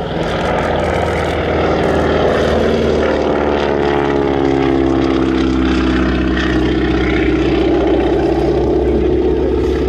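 Boeing Stearman biplane's radial engine and propeller running loud as it flies past, the engine's pitch falling as it goes by, a few seconds in.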